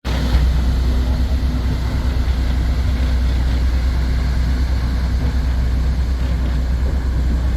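Small tour boat underway: a steady engine drone over a heavy, constant low rumble.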